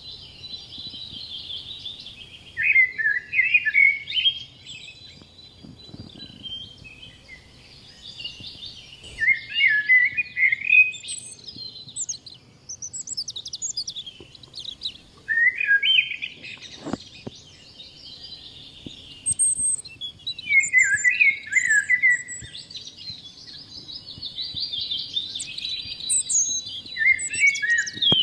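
Birds singing: loud chirping song phrases come about every five to six seconds, with a fainter steady high buzz in between.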